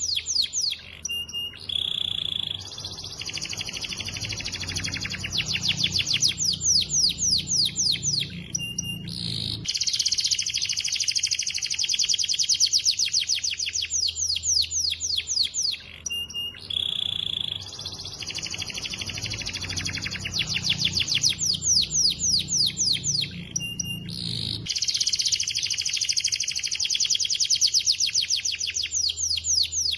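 Domestic canary in full song: long, very fast trills and rolls broken by short pauses and an occasional held high note. The same song sequence repeats about every 15 seconds.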